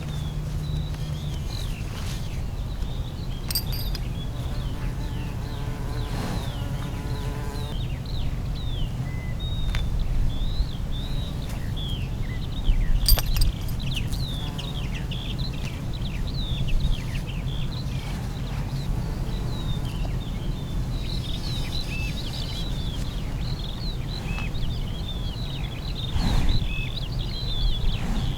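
Many small birds chirping in quick, short calls over a steady low rumble, with a few sharp clicks.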